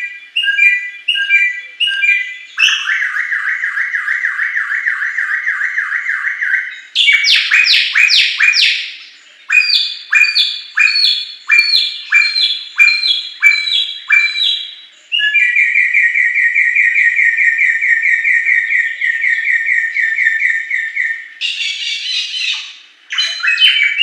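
Bare-throated whistler singing a loud, varied song: runs of repeated whistled phrases, long fast trills and a few sweeping downward notes, with a short harsh burst near the end.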